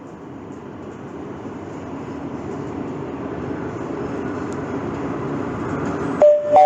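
Madrid Metro line 8 train running, its rumble growing steadily louder. Near the end a steady electronic tone begins, then a second higher one: the start of the onboard chime before the next-station announcement.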